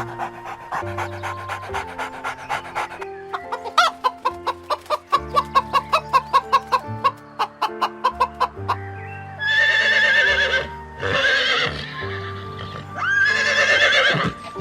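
Background music with a quick plucked rhythm, then three loud chicken calls, each about a second long, in the last third.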